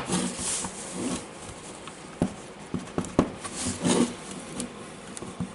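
Small metal-on-plastic handling sounds while the housing screws of a cordless angle grinder are undone and the parts are worked loose: scattered light clicks and knocks, with a few short scraping rubs.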